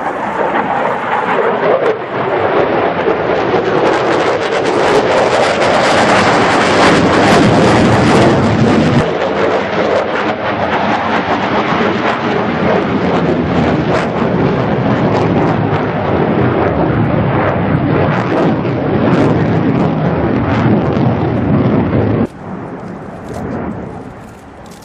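F-16 Fighting Falcon jet fighter passing, its engine a loud, crackling roar that holds for about twenty seconds and then drops sharply near the end.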